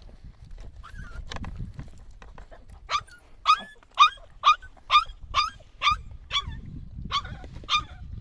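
A dog barking repeatedly, about ten sharp barks at roughly two a second, starting about three seconds in.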